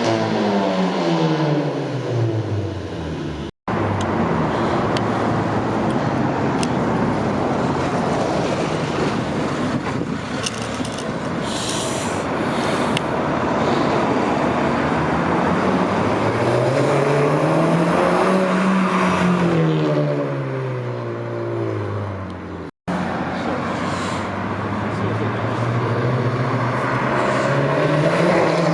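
Audi A3 8P 2.0T turbocharged four-cylinder with a 3-inch downpipe and resonator delete, heard in several cut-together clips. The engine note falls away at first, then there is a long stretch of loud rushing engine and exhaust noise, then a rev that rises and falls, and after a cut it rises again.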